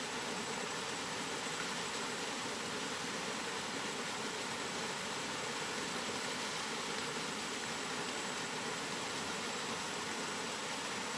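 Steady rain falling, an even hiss with no distinct drops, thunder or gusts, and a faint thin high tone under it.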